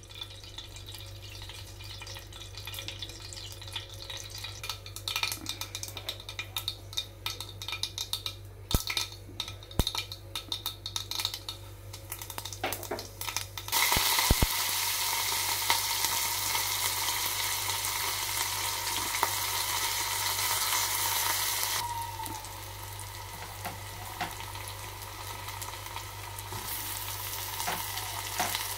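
Hot oil crackling with scattered pops in an aluminium pressure cooker pan. About halfway through, a sudden loud sizzle starts as sliced onions go into the oil. It later eases to a quieter, steady frying sizzle that picks up again near the end.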